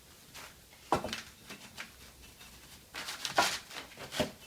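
A few sharp knocks and scrapes of things being handled: one knock about a second in, a busy cluster of knocks and scraping around three seconds in, and another knock near the end.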